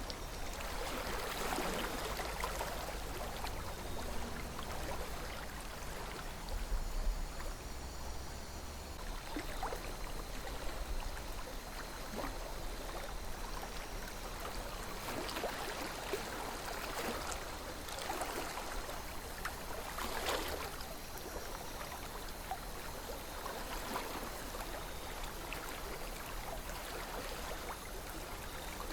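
River water flowing steadily, with irregular brief louder splashes and gurgles every few seconds.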